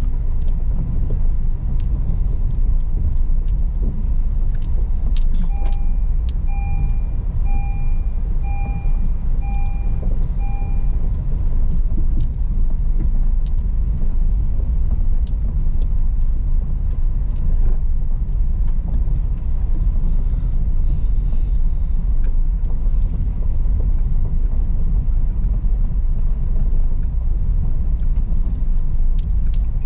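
Car driving over a rocky unpaved road: a steady low rumble of engine and tyres with scattered knocks and rattles. Six short electronic beeps, under a second apart, come in about six seconds in.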